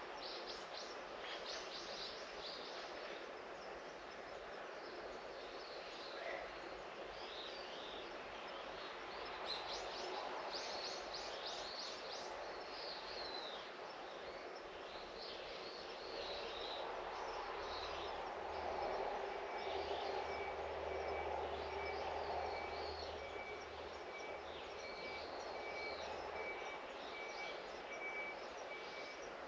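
Small birds chirping and calling over steady outdoor background noise, with a quick series of chirps about ten seconds in. A low drone, like a distant engine, swells in the middle and fades, and a faint, high pulsing tone comes in after about two-thirds of the way through.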